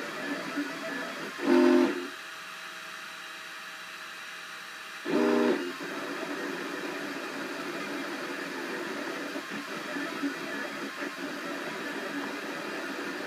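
Cubify 3D printer running a print, its stepper motors whirring steadily. Two short, louder tonal whines come from the motors about one and a half seconds and five seconds in.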